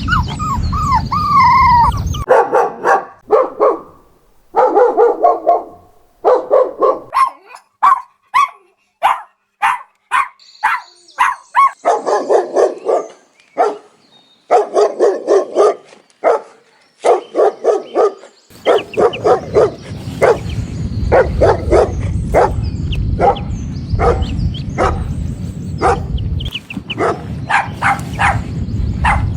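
Puppies barking in a long run of short, quick yaps with brief pauses between volleys, after a wavering whine at the start. A steady low rumble runs under the first two seconds and the last third.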